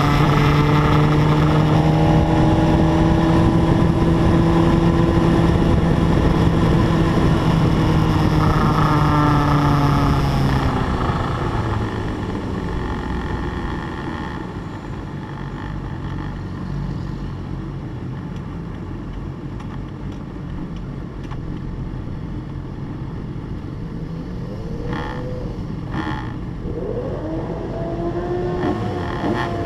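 A 600 cc class racing motorcycle engine holds a steady note for about ten seconds, then the revs fall away and it runs quieter and lower. Rising engine notes come back near the end.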